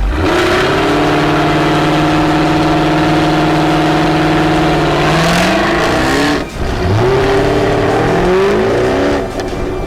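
Sports car engine revving hard. Its pitch leaps up at once and holds steady for about five seconds, then climbs. It cuts off briefly about two-thirds of the way through, then revs up again before easing off near the end.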